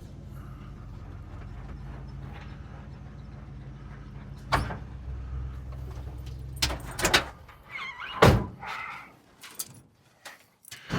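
A vehicle engine running with a steady low hum, which stops about seven seconds in. Several sharp knocks and thunks, door-like, come over it and just after, the loudest about eight seconds in, then only a few faint clicks.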